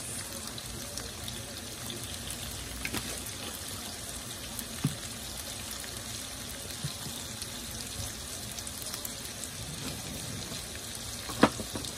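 Sliced onions frying in oil in a skillet, a steady sizzle, with a few light clicks and one sharper tap near the end.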